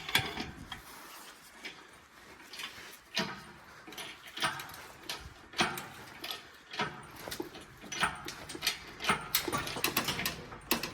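Engine hoist lifting an engine out of the engine bay: sharp metallic clanks and clicks roughly once a second, irregular in strength.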